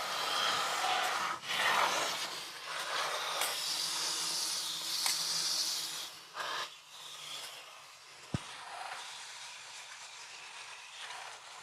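Small high-pressure washer spraying water into an air conditioner's indoor unit: a steady hiss of spray, louder for the first six seconds and then weaker, with one sharp click about eight seconds in.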